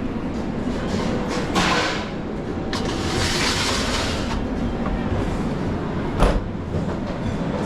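Busy commercial kitchen background: a steady low rumble, with two short bursts of hissing in the first half and a sharp knock about six seconds in.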